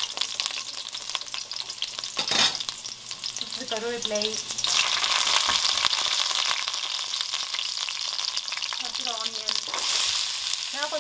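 Mustard seeds and chopped green chilli crackling and sizzling in hot oil in a stainless steel kadai, with a spatula stirring. About five seconds in, curry leaves go into the oil and the sizzle jumps louder. Near the end, chopped red onions are tipped in with another surge of frying.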